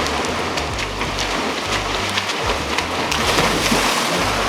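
Water splashing and churning steadily in a swimming pool as people thrash through it, with a background music bass line underneath.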